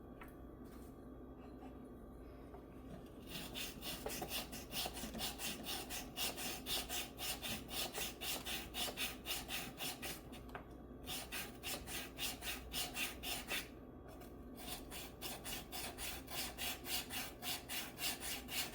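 A metal file scraping back and forth across guitar frets in quick, even strokes, about four a second, in three runs with two short pauses. The frets are being filed down because two of them still clank.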